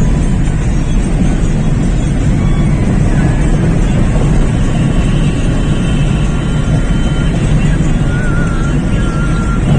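Steady, loud rumble of a vehicle running, heard from inside it, with a faint wavering thin tone near the end.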